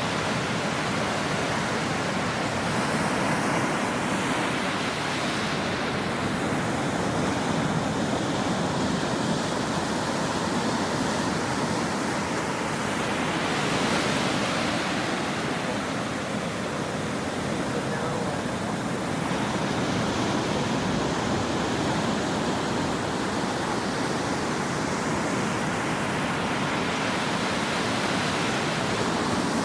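Ocean waves breaking and washing up a shore in a steady roar of surf. Each wave swells and recedes every several seconds, and the biggest one comes about halfway through.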